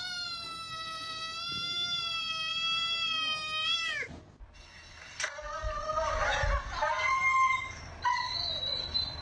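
A cat's long drawn-out yowl, held at one pitch for about four seconds before it breaks off. Then a jumble of short high-pitched calls and a few low thumps.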